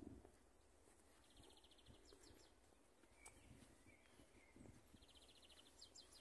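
A small songbird singing faintly, the same short phrase twice: a fast trill followed by a few quick high notes. A faint low rumble runs underneath.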